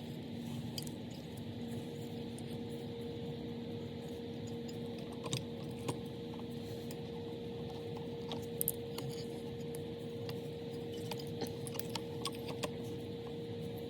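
Light clicks and clinks of small metal parts being handled, scattered and irregular, with a cluster of sharper ticks about 8 to 9 seconds in, over a steady background hum.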